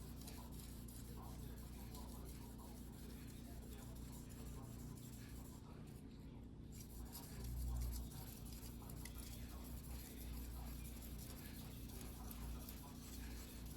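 Faint, repeated scraping strokes of a single-bevel fuguhiki sashimi knife being hand-sharpened on a whetstone, over a steady low hum.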